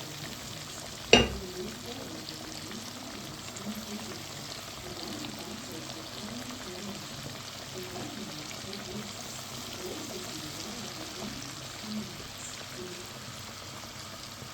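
Chicken breast pieces frying in hot oil, a steady crackling sizzle, with one sharp knock about a second in.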